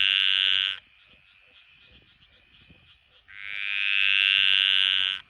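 A frog calling: two long trills of about two seconds each, rising slightly in pitch. The first ends under a second in and the second starts about three seconds in. Faint quick ticking lies between them.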